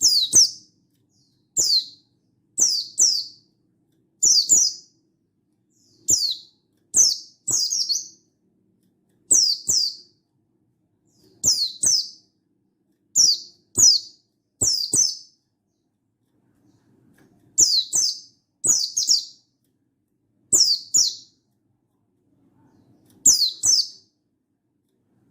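Buxtoni white-eye (pleci) calling over and over: short, high, downward-sliding notes, often in quick pairs, about one burst a second with a couple of brief pauses.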